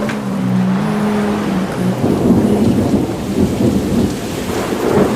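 Thunderstorm: rain with thunder rumbling in low, building about two seconds in. Low sustained tones run under it in the first two seconds.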